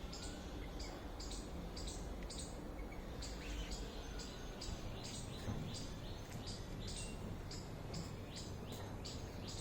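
Small birds chirping in a steady series of short, high chirps, about two to three a second, over a low, steady background rumble.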